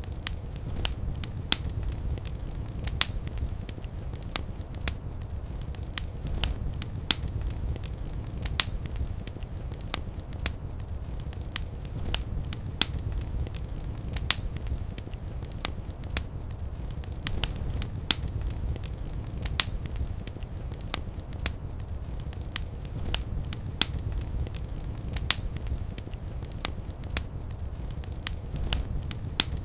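Wood fire crackling in a fireplace: a steady low rumble of flames, with sharp pops and snaps at irregular intervals, about one to three a second.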